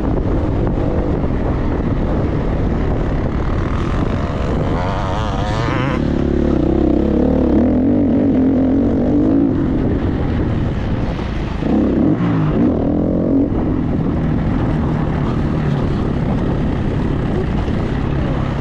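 Enduro dirt bike engine running under load, its revs rising and falling with the throttle, with two marked swings in pitch, about five seconds in and again about twelve seconds in.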